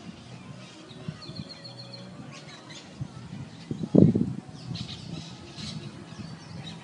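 Birds calling outdoors, with a quick run of high chirps about a second in and scattered calls later. A short, loud, low thump about four seconds in is the loudest sound.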